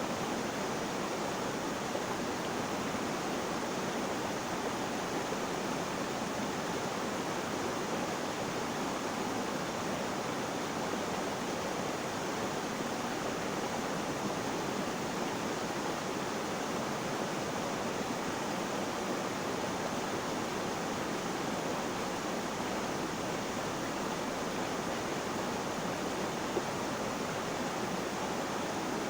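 Flowing water: a steady, even rushing noise that holds constant with no changes.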